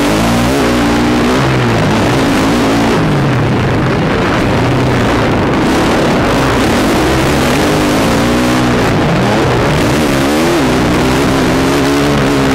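Motocross bike engine revving hard, its pitch climbing and dropping over and over as the rider opens and closes the throttle through the lap, with a steady loud rush of noise underneath.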